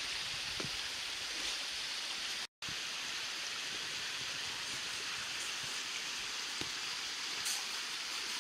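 Steady rushing water of a stream or waterfall, an even hiss that cuts out completely for a moment about two and a half seconds in.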